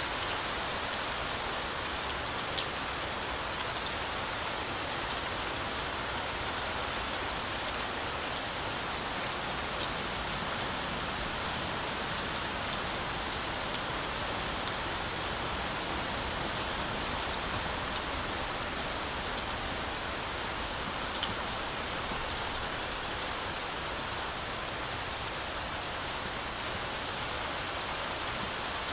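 Steady heavy rain falling through a forest canopy, a dense even hiss with occasional single drops ticking nearer.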